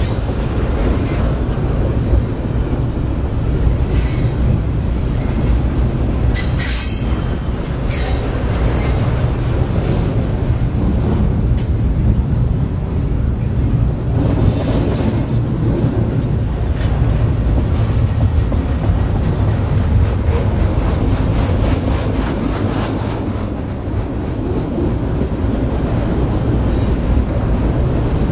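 BNSF double-stack container train of well cars rolling past close by: steady rumble of steel wheels on rail, with sharp clacks over the rail joints, most of them in the first half, and now and then a brief high wheel squeal.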